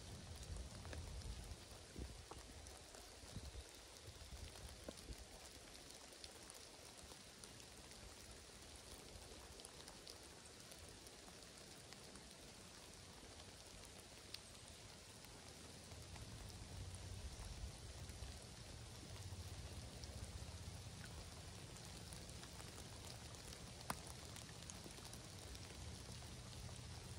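Light rain falling faintly and steadily, with scattered single drops ticking sharply, one louder near the end, over a soft low rumble that swells about sixteen seconds in.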